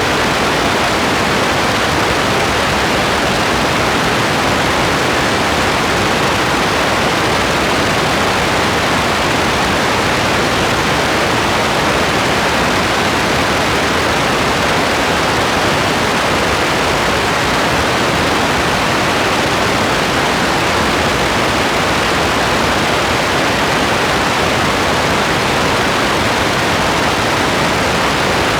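Steady rain as a dense, even hiss, with no separate drops, thunder or changes standing out.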